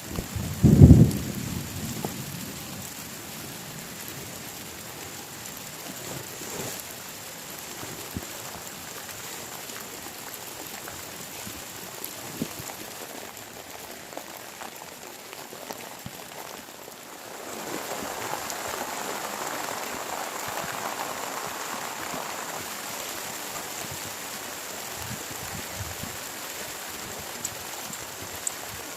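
Heavy rain falling steadily, with a brief loud low thump about a second in. The rain grows louder for a few seconds past the middle.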